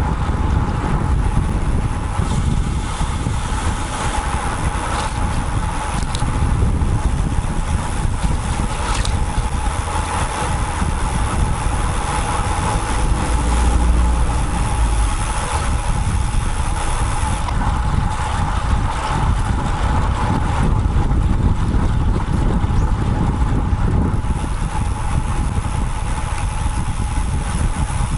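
Steady wind and road noise picked up by an action camera mounted on a moving road bike, mixed with nearby motor traffic; the low rumble swells briefly about halfway through.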